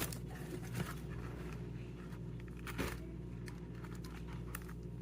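Rustling and crinkling of something being handled, with short sharper sounds about a second in and near three seconds in, over a steady low hum.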